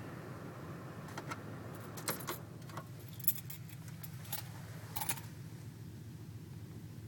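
A handful of short metallic clinks and jingles, bunched between about one and five seconds in, over a steady low rumble.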